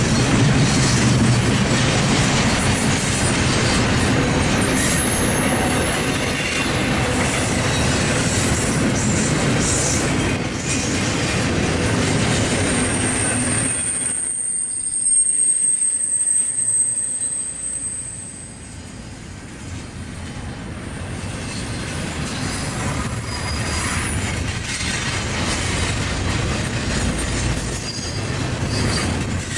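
Freight train rolling past with a steady rumble and rattle of wheels on rail. A thin, high wheel squeal comes in briefly early and again for several seconds in the middle, while the rumble dips for a moment.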